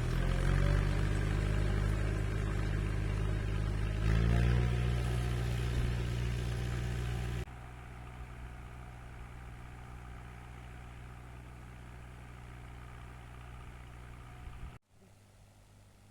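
Tractor engine running, revving up about four seconds in. About halfway through the sound drops abruptly to a quieter, steady engine hum, and near the end it falls to a faint background.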